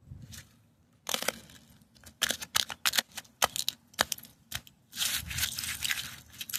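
Bare feet stepping on icy, crusted snow: a run of sharp irregular crunches starting about a second in, thickening into a denser scuffing stretch near the end.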